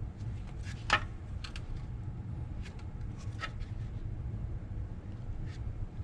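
Scattered small clicks and taps of hand tools working the small nuts and bolts off a Rolls-Royce Phantom III front brake backing plate, with one louder knock about a second in, over a steady low hum.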